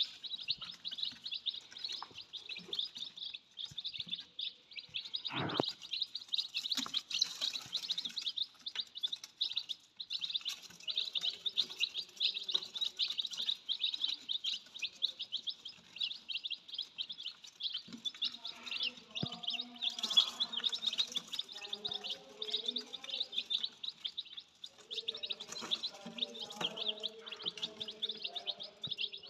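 A brood of baby birds chirping continuously, a dense, rapid high-pitched twittering of many overlapping calls.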